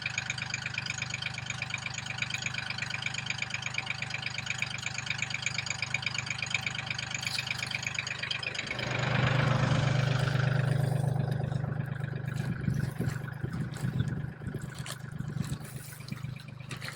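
An engine idling steadily. About nine seconds in, it turns deeper and louder for a few seconds, then eases off.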